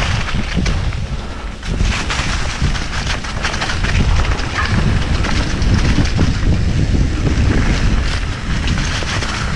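Wind buffeting the microphone of a mountain bike rider on the move, over a heavy low rumble with scattered knocks and rattles from the bike running over rough trail.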